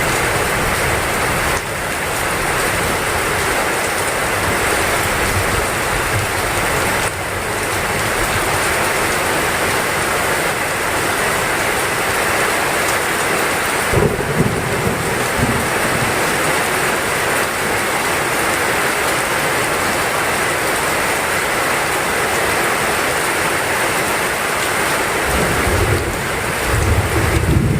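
Heavy rain falling steadily in a dense hiss, with low rumbles of thunder about halfway through and again near the end.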